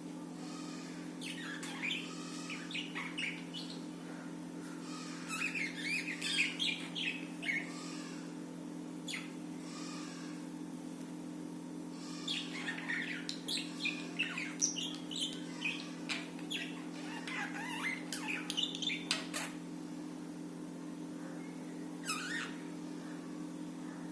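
Budgerigars chirping and warbling in quick bursts, in several bouts with short pauses between them, over a steady low hum.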